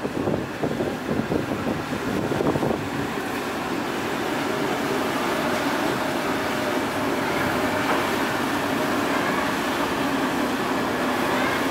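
A ship's engines running with a steady drone, with wind buffeting the microphone in gusts during the first couple of seconds.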